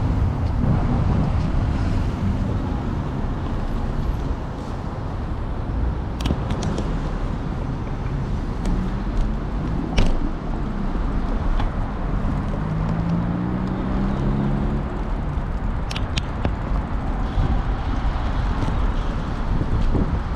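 Street traffic: motor vehicles running and passing, with a low steady rumble. A vehicle engine's note rises slightly about two-thirds of the way in, and a few sharp clicks stand out.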